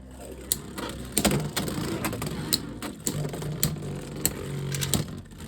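Two Beyblade X spinning tops, Unicorn Sting and a green Wizard Arrow, battling in a plastic stadium. A steady spinning whir is broken by frequent sharp clacks as the tops collide with each other and the stadium walls.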